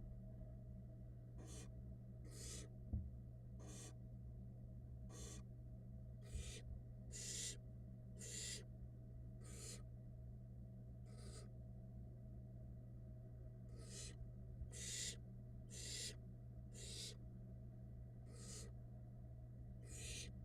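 Barn owl nestlings giving their begging hisses: short raspy hisses, about one a second, with a pause of a few seconds in the middle, over a steady low hum.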